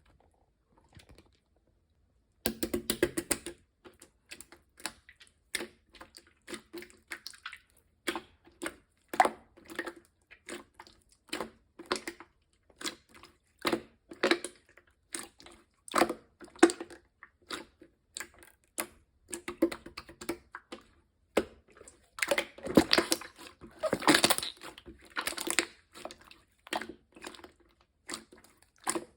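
Mint clear slime being pressed and squished by hand, giving crisp clicks and pops in irregular runs. It starts about two and a half seconds in and grows denser and louder for a few seconds near the end.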